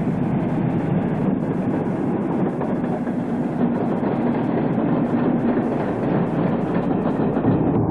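A train running, a steady rumble with rail noise and no breaks.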